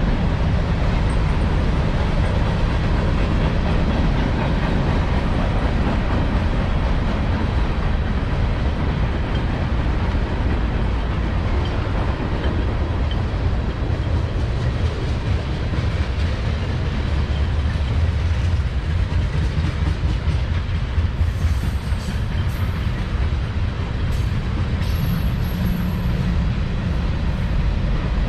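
Freight train rolling past: a steady rumble of the cars' wheels on the rails, with a few brief high squeaks near the end.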